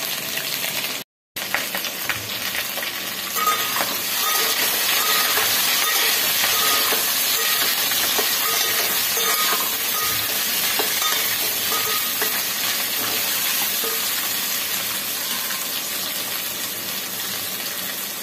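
Cut drumstick, potato and sweet potato sizzling in hot oil in an aluminium pan while a steel spatula stirs them. The sound drops out for a moment about a second in, and the sizzle grows louder a few seconds later.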